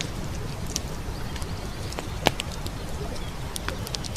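Campfire crackling with scattered sharp pops, the loudest about two seconds in, over the steady low rush of a stream.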